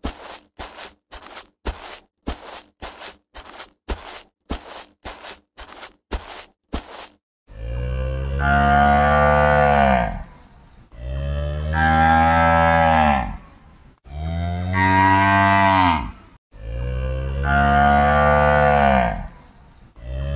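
An even run of sharp thuds, about two a second, for the first seven seconds, then a cow mooing four times, each a long, low moo of about two seconds.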